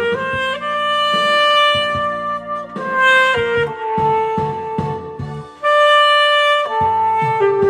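Saxophone playing a slow melody of long held notes over a backing track with a steady beat.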